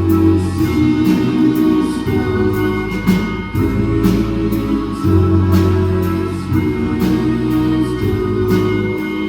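A live band playing an instrumental passage of a pop-rock song: sustained chords and held bass notes under a steady beat of cymbal strokes about twice a second.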